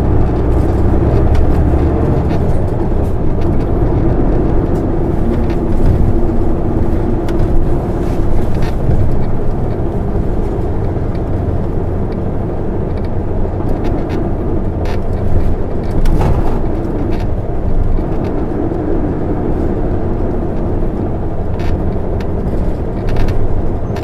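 Isuzu Erga diesel city bus driving, heard from inside: a steady engine drone over road noise, its pitch drifting up and down with speed, with a few faint clicks and rattles.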